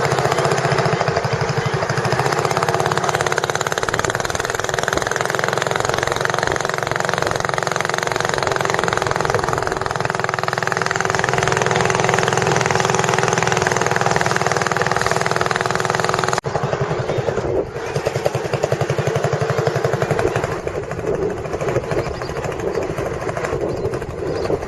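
A small boat engine running steadily. It cuts off abruptly about sixteen seconds in and resumes straight away at a similar steady level.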